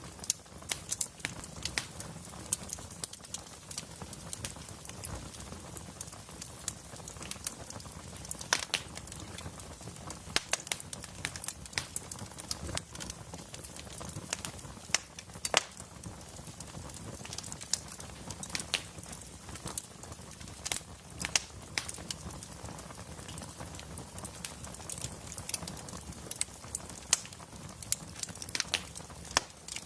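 Wood fire crackling, with frequent sharp pops and snaps over a low, steady rumble.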